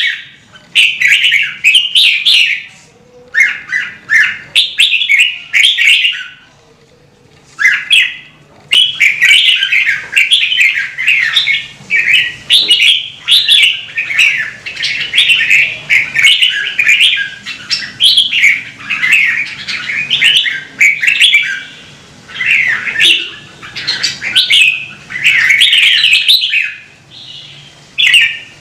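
Red-whiskered bulbul singing loudly, a quick run of chirping, warbled phrases one after another, with a brief pause about seven seconds in.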